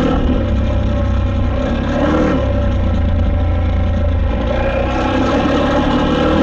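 KTM 890 Adventure R's parallel-twin engine running under throttle while riding, its note shifting about two seconds in.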